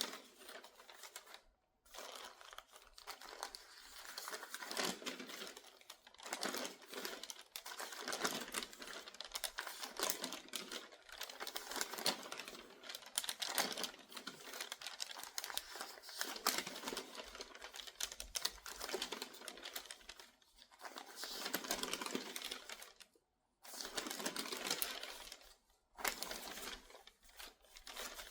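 Crinkly newspaper pages turned quickly one after another: a dense run of paper crinkling and rustling, with short pauses about two seconds in and twice near the end.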